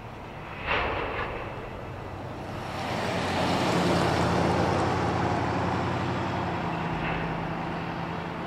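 Empty freight train of covered grain hoppers rolling away on the rails. There are two short squeals about a second in, and a broad rumble that swells to its loudest about four seconds in, then slowly fades.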